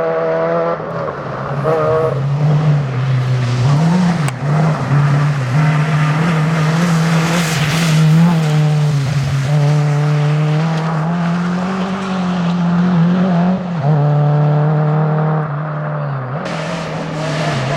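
Rally car engine running hard at high revs, holding a loud, steady note that briefly drops and wavers a few times as it shifts or lifts off.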